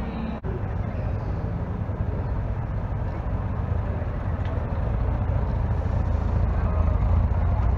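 Pre-1972 classic cars' engines running as they roll slowly past at low speed, a steady low rumble that grows louder in the second half.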